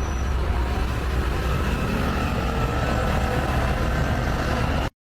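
Heavy truck diesel engine running with a steady low rumble, cut off abruptly near the end.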